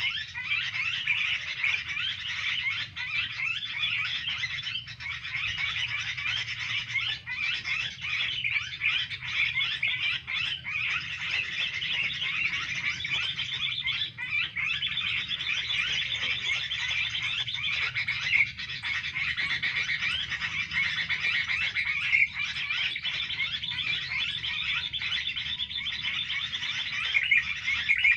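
Dense, continuous chatter of many small birds calling rapidly, with no pause.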